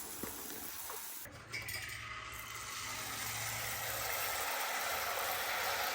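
Hot oil sizzling steadily as sel roti batter fries, with a few faint utensil clinks in the first second. The sizzle drops out briefly about a second in, then returns and slowly grows louder.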